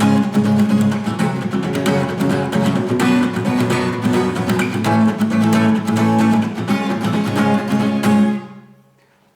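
Guitar strummed in a brisk rhythm, down-strokes with the index fingernail and up-strokes with the fingertip, playing an instrumental interlude pattern. It stops about 8 seconds in and the chord rings out.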